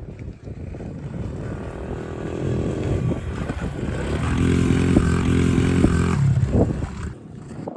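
Honda pit bike's small four-stroke single, freshly fitted with a new carburetor, revving as the bike is ridden off. It builds to its loudest about two-thirds of the way in, then drops away and cuts off near the end.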